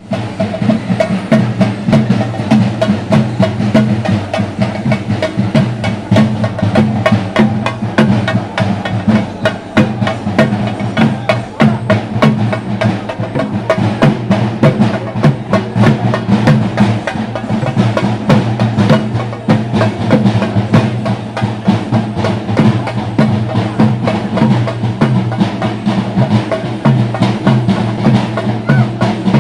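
Chenda drums of a temple festival ensemble, beaten in a fast, unbroken roll of sharp strokes.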